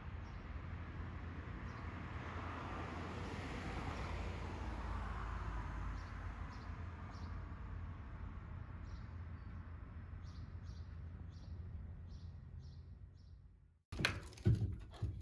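Outdoor ambience of small birds chirping in short, repeated notes over a steady low rumble, with a swell of rushing noise in the first few seconds. It fades out near the end, then gives way abruptly to a few sharp taps and knocks in a small room.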